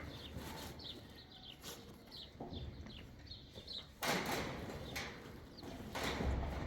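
Small birds chirping repeatedly, then a loud burst of noise about four seconds in and another near the end.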